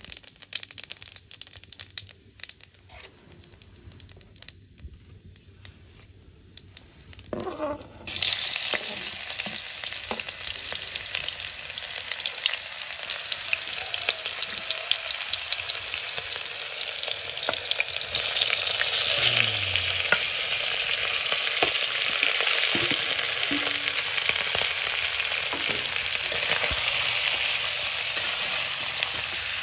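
Oil heating in an iron wok, crackling faintly, then a sudden loud sizzle about eight seconds in as sliced onion goes into the hot oil. It gets louder again a little past halfway as raw chicken pieces are added and keep frying.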